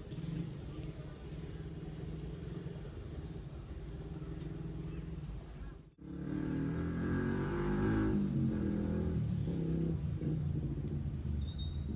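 Small motorcycle engines running on a narrow lane. About halfway through, the sound cuts off abruptly. It comes back louder, with an engine's pitch rising and falling as it works.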